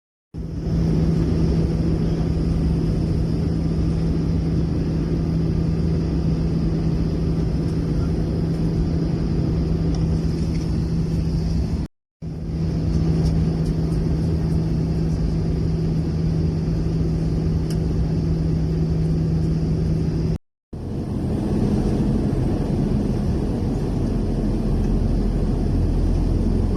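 Steady rumble of a running vehicle engine with a constant low hum. It cuts out abruptly twice, and after the second break the hum sits a little higher.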